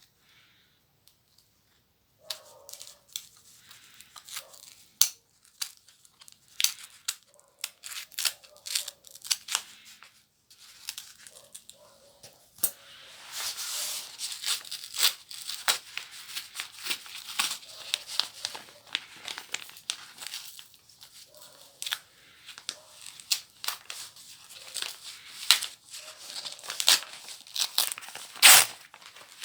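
Paper packaging of a book parcel being torn open and crumpled by hand: starting about two seconds in, a dense run of crackles and rips, a longer continuous tear through the middle, and a sharp loud rip near the end.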